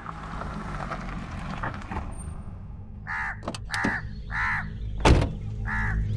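Harsh bird calls, four in a row about half a second apart starting halfway through, over a low steady drone, with one sharp knock between the third and fourth calls.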